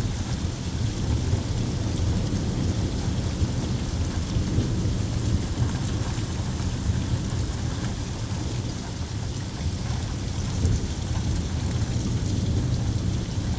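Thunderstorm: steady rain with a continuous low rumble that rises and falls.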